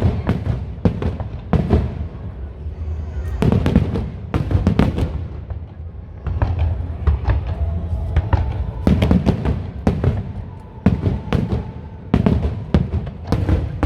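Aerial fireworks bursting in rapid clusters of sharp bangs and crackles, with music playing underneath.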